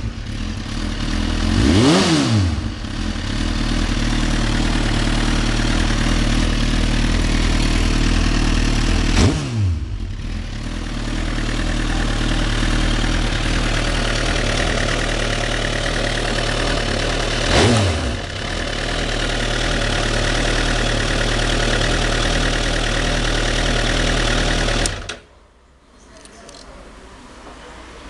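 Suzuki GSX-R1000 K8 inline-four motorcycle engine through a Yoshimura R77 full exhaust, idling steadily with three short throttle blips that rise and fall. About three seconds before the end the engine is switched off and the sound cuts out suddenly.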